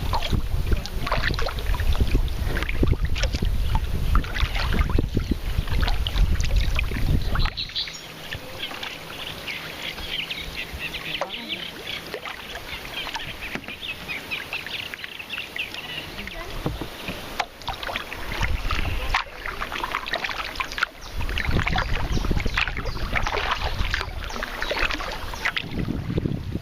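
A kayak moving on the water: paddle splashes and dripping water. Wind rumbles on the microphone for the first several seconds and again from about two-thirds of the way through.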